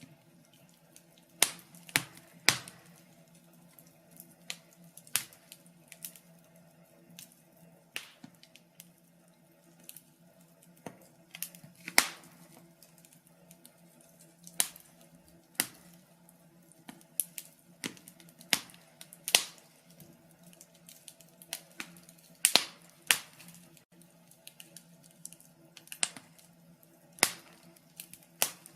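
Wood fire crackling in a fireplace: irregular sharp pops and snaps, a few louder cracks standing out, over a faint steady low hum.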